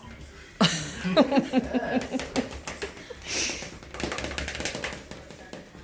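A short burst of laughter, then a run of quick clicks and scrapes from spoons working in tubs of hard ice cream.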